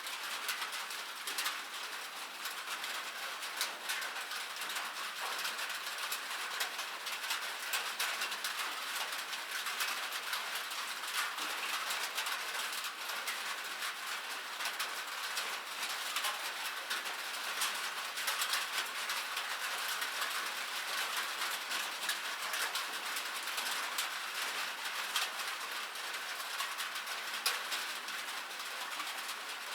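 Rain falling on a metal surface: a steady, dense patter of drops, with many small sharp taps over an even hiss.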